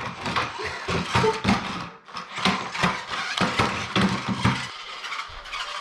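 A pet pig grunting in quick short bursts, several a second, with a brief pause about two seconds in and quieter grunts near the end.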